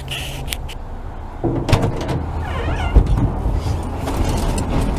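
A few clicks and clunks of vehicle handling, with a louder knock about three seconds in, over a steady low rumble.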